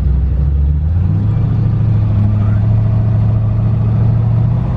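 LS V8 engine of a twin-turbo Fox-body Mustang running while the car drives. About a second in, its note rises and then holds steady.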